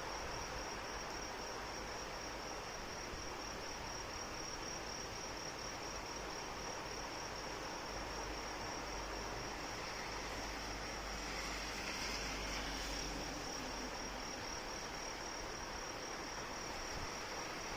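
Steady rain falling, with insects (crickets) singing in one continuous high, rapidly pulsing trill over it. The rain swells briefly a little past the middle.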